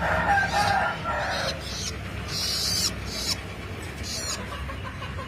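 Long-tailed shrike nestlings giving harsh, hissy begging calls in short repeated bursts, with a lower wavering call over the first second and a half.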